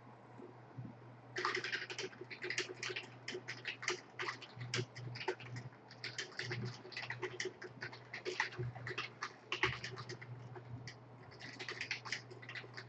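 Typing on a computer keyboard: a quick, irregular run of key clicks that starts about a second in, pauses briefly near the end, then resumes, over a low steady hum.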